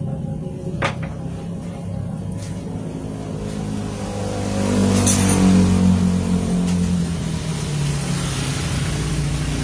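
An engine or motor running steadily with a low hum that swells about halfway through, with a single sharp click about a second in.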